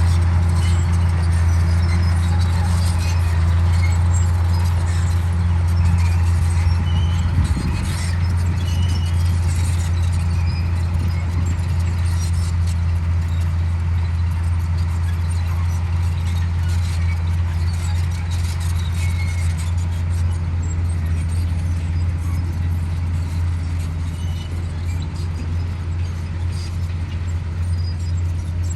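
Komatsu D58E bulldozer's diesel engine running steadily under load, with short squeaks and clanks from its tracks.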